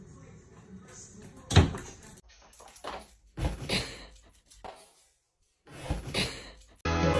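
A loud sharp thump, then a few scattered knocks and bumps with short quiet gaps between them, like something hitting a door or cupboard. Music starts abruptly near the end.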